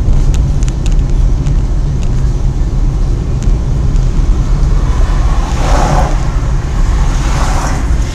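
Loud, steady low rumble of a moving vehicle picked up by a dash camera's microphone, with two brief rushing swells in the second half.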